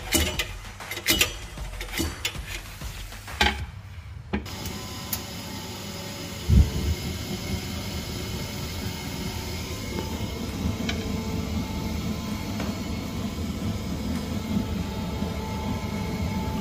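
A few sharp clicks and knocks, then a boiler's fan running steadily. The fan had seized and has been freed with oil. There is a single loud thump a couple of seconds after the running starts.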